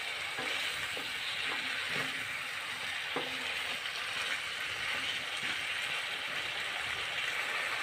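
Cauliflower frying in curry sauce in a blackened metal pan, sizzling steadily, while a wooden spoon stirs it with scraping and a few light knocks against the pan in the first three seconds.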